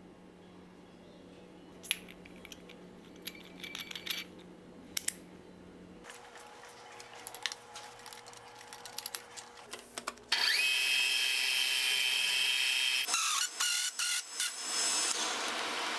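Light clicks and taps of parts being handled, then a power tool starts about ten seconds in, its motor whine rising briefly as it spins up. It runs loudly with a hiss, broken by a few short dips near the end.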